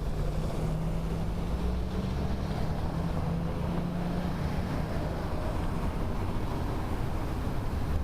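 Wind rushing over a bicycle-mounted camera's microphone while riding, over a steady low hum of motor traffic.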